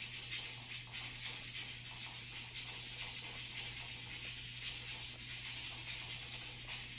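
Steady background hiss with a low hum, and faint soft rustles and clicks.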